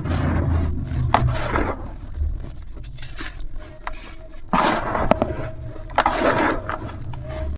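Brittle material crumbling and scraping in a series of gritty, crunching bursts, with the loudest about four and a half and six seconds in.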